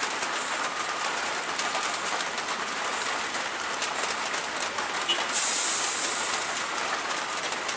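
Steady rain hiss with fine pattering, broken about five seconds in by a louder, sharp hiss lasting about a second.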